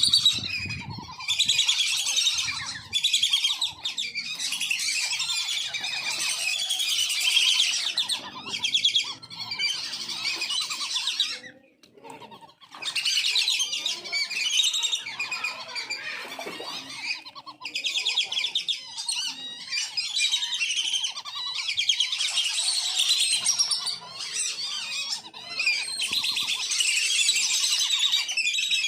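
A flock of wandering whistling ducks calling together: dense, overlapping high-pitched whistles, nearly continuous, with a brief lull about twelve seconds in.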